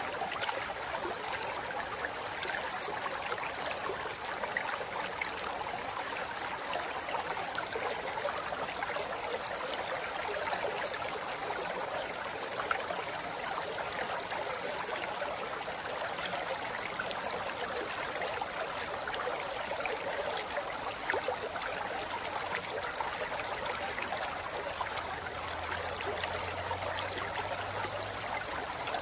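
Shallow forest river flowing over rocks: a steady rush of water with fine splashing and trickling.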